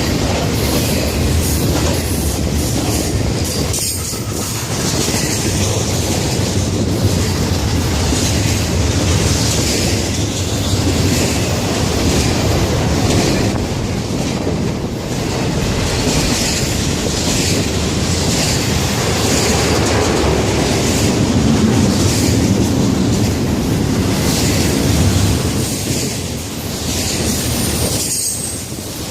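Florida East Coast Railway freight train cars rolling past at close range: a loud, steady rumble and clatter of steel wheels on the rails.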